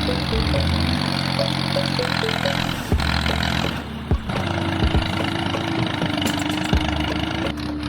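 An engine running steadily, its pitch shifting a couple of times, with a few sharp knocks and light background music.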